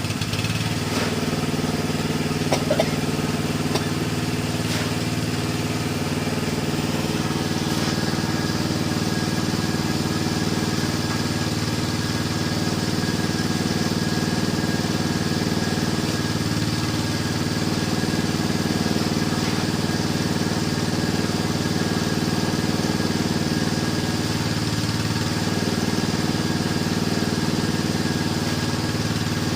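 A small engine running steadily at an even idle-like speed, with a few faint clicks in the first few seconds.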